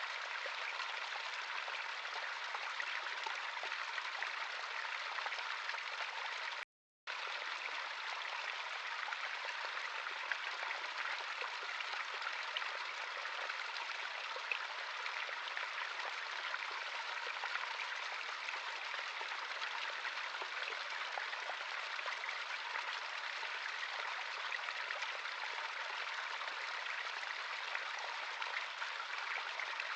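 Running water of a stream, a steady rushing and babbling, with the sound cutting out completely for a moment about seven seconds in.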